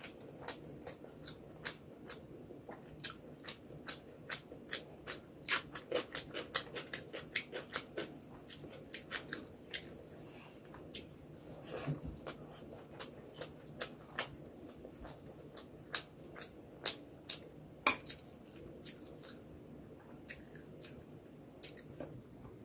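Close-miked chewing of a mouthful of rice and spicy egg curry eaten by hand: a long run of short wet clicks and lip smacks, thick in the first half and thinning out after about eighteen seconds.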